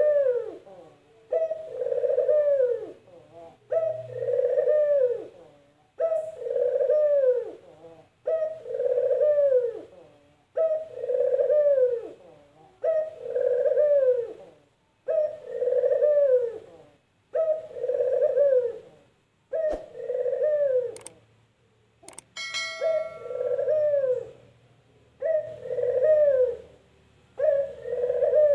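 Barbary dove (burung puter) cooing over and over, about one call every two seconds, each a short note and then a long rolling coo that falls in pitch (the "kuk geruuuk" call). About twenty seconds in the calls pause briefly, with a sharp click and a short high tone.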